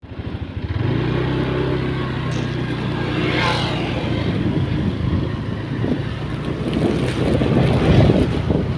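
An engine running steadily, with wind buffeting the microphone and growing stronger in the second half.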